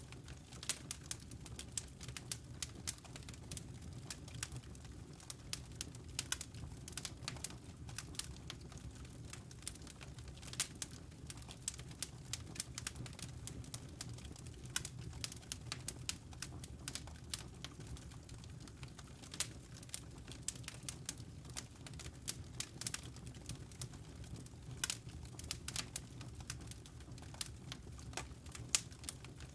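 Wood fire crackling in a fireplace: irregular sharp snaps and pops, some louder than others, over a steady low rumble.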